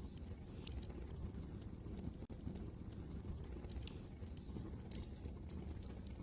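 Wood fire crackling, with irregular sharp pops and snaps, over a steady low rumble of wind.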